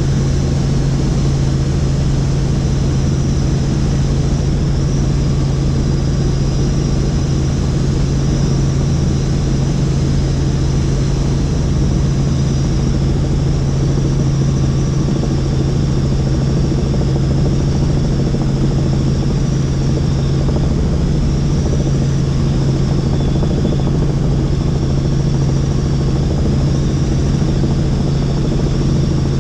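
Helicopter in flight: a steady, loud drone of rotor and engine with a high, slightly wavering whine above it.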